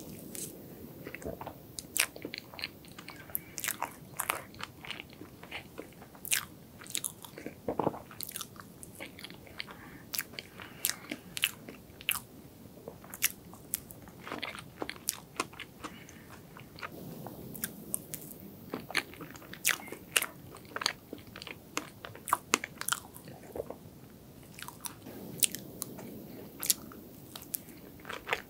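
Close-miked eating: a person chewing a mouthful of soft strawberry cream cake, with many short, sharp mouth clicks and smacks spread irregularly throughout.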